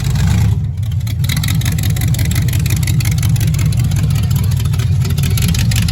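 A loud car engine running at a steady speed, a dense rapid exhaust rumble with no clear rise or fall in revs.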